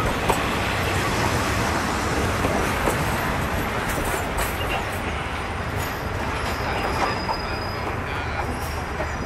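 State Railway of Thailand passenger coaches rolling slowly along the rails, a steady rumble of wheels with scattered clicks over the rail joints. A faint high wheel squeal comes in around the middle.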